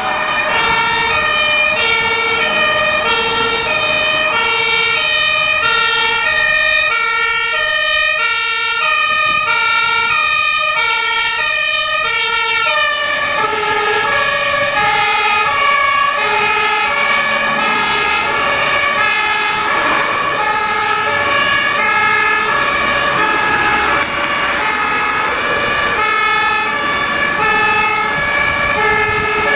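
German two-tone fire engine siren (Martinshorn) sounding continuously, switching between a lower and a higher note at a steady pace. About halfway through, the pitch and timing of the two-note pattern shift slightly.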